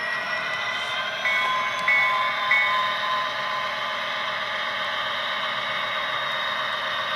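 Tsunami sound decoder in an HO-scale SD60M model diesel locomotive playing prime-mover sound through its small speaker, the engine pitch rising as it throttles up. Three short horn blasts sound a little over a second in.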